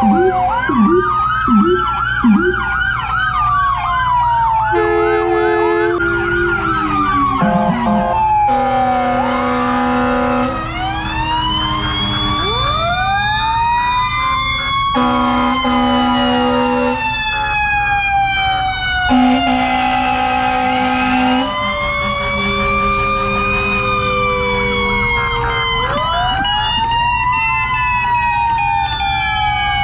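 Sirens of several fire trucks and emergency vehicles sounding at once: overlapping wailing tones rising and falling, a fast yelp near the start, and three long horn blasts in the middle, over a steady low engine rumble.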